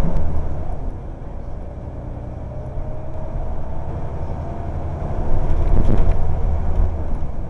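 Scania L94UB single-deck bus with a ZF four-speed automatic gearbox under way, its diesel engine running with a deep rumble and a slowly rising whine. The engine note drops about a second in and builds again, loudest between about five and seven seconds.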